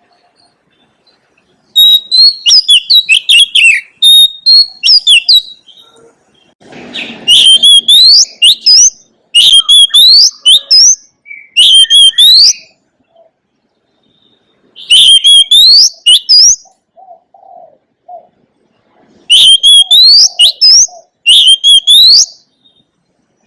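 Oriental magpie-robin singing: loud phrases of rising whistles and quick chirps, in about six bursts of one to three seconds with short pauses between.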